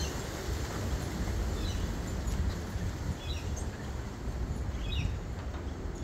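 A bird giving a short, high chirp three times, spaced about one and a half seconds apart, over a steady low rumble.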